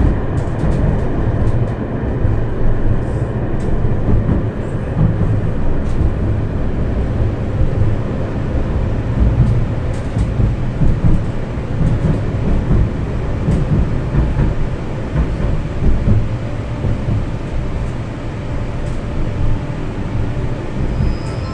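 Tram running along its line, heard from inside the car: a steady low rumble of wheels on rails, with faint scattered clicks.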